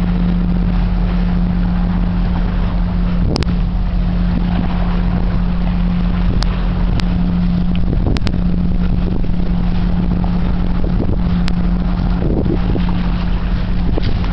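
Steady low engine hum with a constant drone, broken by a few brief sharp clicks.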